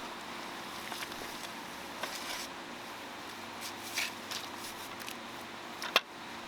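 Digging in wet soil around a buried lawn sprinkler head: scattered short scrapes and crunches, with one sharp knock about six seconds in, over a faint steady hum.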